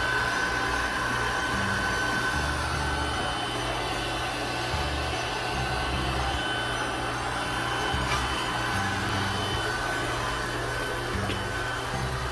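Steady whir of a small electric motor with a thin high tone, over background music with a bass line.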